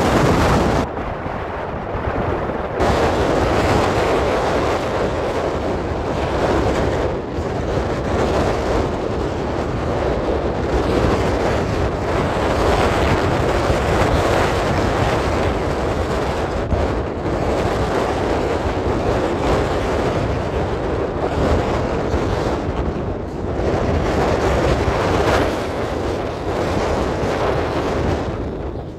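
Loud, steady rushing noise of wind buffeting the microphone, with a low rumble underneath.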